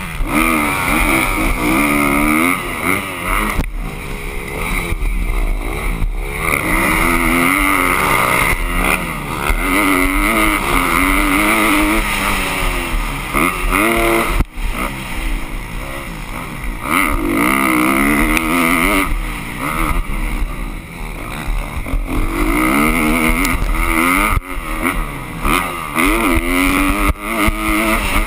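Motocross dirt bike engine revving hard, its pitch climbing and dropping again and again as the throttle opens and closes.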